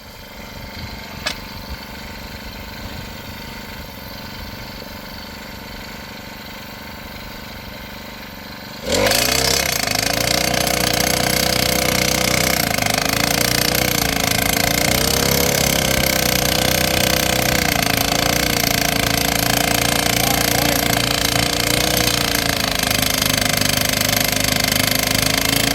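Petrol post driver running at low speed, then opened up sharply about nine seconds in. It runs loud and steady, its engine pitch wavering as it hammers a fence post into the ground.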